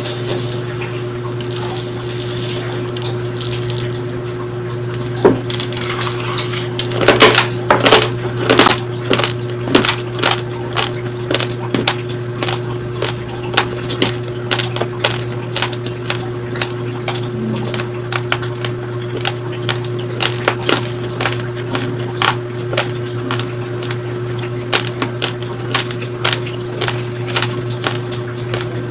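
Raw, uncooked white rice grains being crunched and chewed close to the microphone. Crisp crunches start about five seconds in, come thickest a couple of seconds later, then go on about twice a second over a steady electrical hum.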